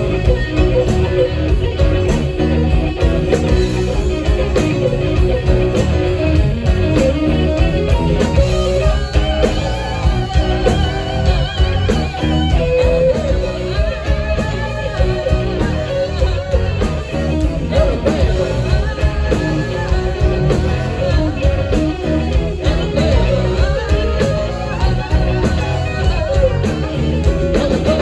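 Band music with electric guitar prominent over bass and drums, in a blues-rock style.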